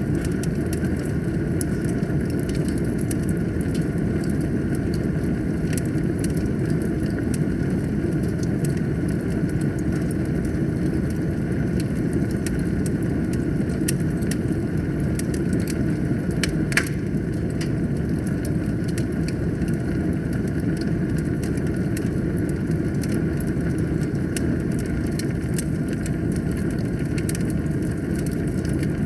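Wood fire burning in a fireplace: a steady low rumble of flames with frequent small crackles and one louder pop a little past halfway.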